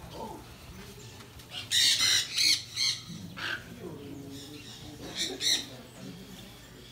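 Birds squawking harshly in short bouts, loudest about two seconds in and again near five seconds.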